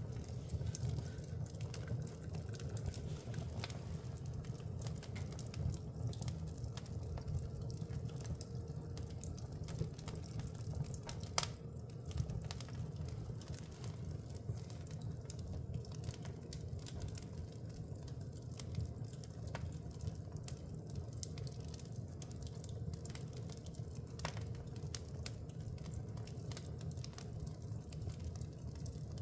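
Wood fire in a fireplace crackling, with scattered sharp pops over a steady low rumble of flames; one louder pop about eleven seconds in.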